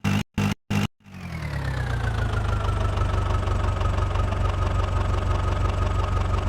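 Diesel engine of a heavy machine running steadily, with a low hum and a high whine that drops in pitch over the first second or two and then holds level. It comes in about a second in, after a run of rapid choppy bursts.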